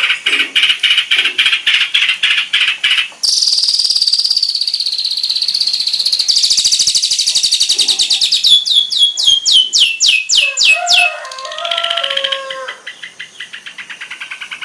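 Long-tailed shrike (cendet) singing a loud, fast, varied song of chattering trills and rapidly repeated notes, the mimicked 'isian' phrases of a gacor bird. A little past the middle comes a run of about ten quick falling whistles, and near the end the song turns to a softer, faster chatter.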